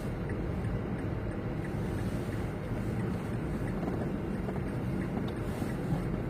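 Semi truck's engine and road noise as a steady low rumble from inside the cab, with faint light ticks repeating a few times a second.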